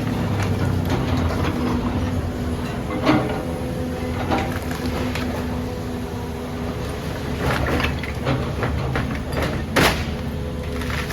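Demolition excavator's diesel engine running steadily, with several crunches and knocks of rubble being broken and moved. The loudest knock comes near the end.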